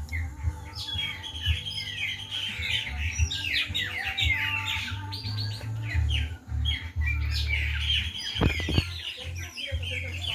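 A chorus of many small birds chirping and trilling rapidly over one another at dusk, over a low steady rumble. Two short knocks come near the end.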